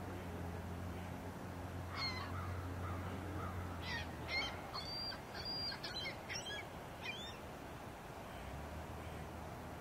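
A bird calling: a run of about eight short calls, starting about two seconds in and ending around seven seconds in, over a steady low hum.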